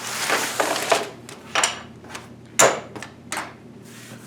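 Handling noise as PC cables and packaging are cleared aside on a work surface: rustling, then a few separate knocks and clacks, the sharpest about two and a half seconds in.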